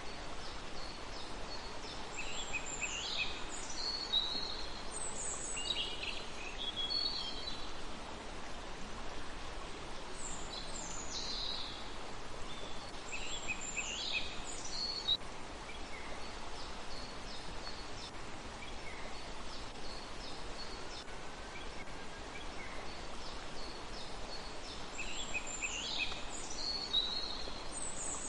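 Small songbirds singing quick, high, twittering phrases in three separate bouts over a steady background hiss.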